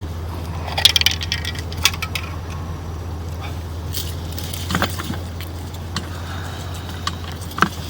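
Scattered metallic clinks and rattles over a steady low hum: a cluster of clinks about a second in, then single ones near two, five and seven and a half seconds.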